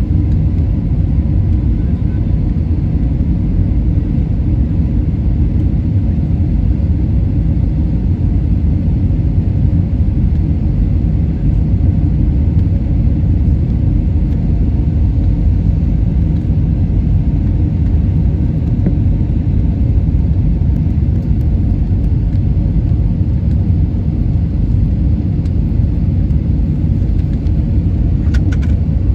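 Steady cabin rumble of an Airbus A320-family jet airliner on descent: engine and airflow noise, low and even throughout, with a couple of faint clicks near the end.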